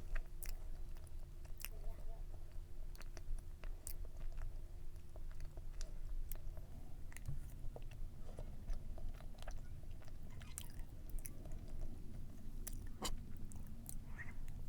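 A person chewing and biting into Russian-style layered cake close to the microphone, with many small, scattered mouth clicks.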